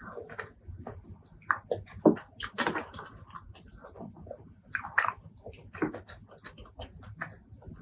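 Close-miked wet chewing and smacking of a mouthful of spicy pork leg curry and rice, in quick irregular bursts of squelchy clicks.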